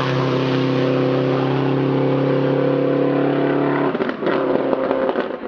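Race car engine at high revs with a steady, slightly rising note, which about four seconds in breaks off into a rapid, irregular crackle.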